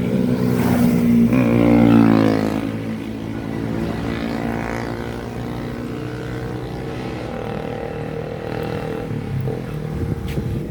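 An engine running steadily nearby, growing louder over the first two seconds or so, then easing back and holding an even, steady sound.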